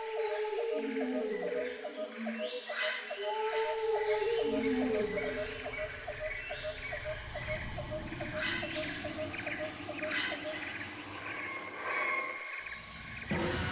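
Jungle ambience: a steady high chorus of insects with a bird or animal repeating a short call about three times a second, over lower gliding animal calls. The mix changes abruptly near the end.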